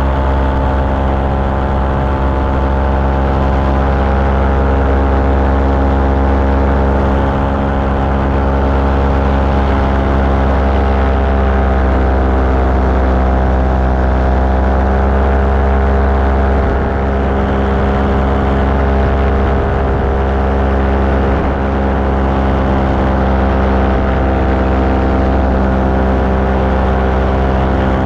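Light aircraft engine and propeller running steadily in flight, a constant loud drone with small shifts in pitch.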